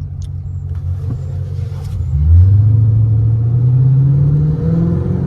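Car engine rumbling, then about two seconds in it gets louder and its pitch climbs steadily as the car accelerates.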